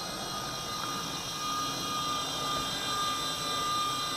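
V913 RC helicopter's small electric motors and rotor blades running, a steady whine with a constant high tone.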